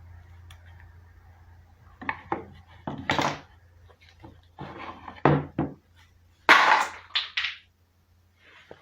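A steady low hum fades away, then a string of separate knocks, clatters and scrapes of tools and parts being handled, the loudest about six and a half seconds in.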